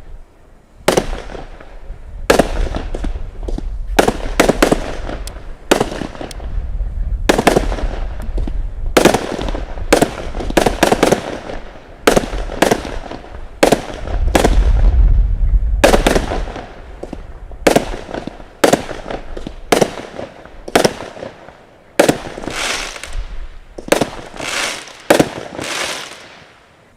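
Consumer firework cakes firing in a rapid finale barrage: sharp bang after bang, one or two a second, each trailing off in crackle, with a denser rumbling stretch about halfway through.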